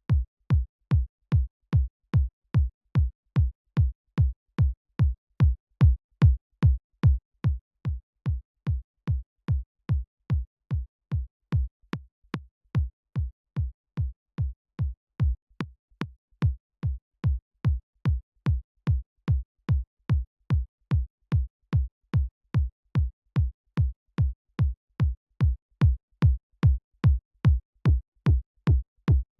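Synthesized electronic kick drum looping on its own, about two hits a second. Each hit is a short click followed by a deep boom that drops in pitch.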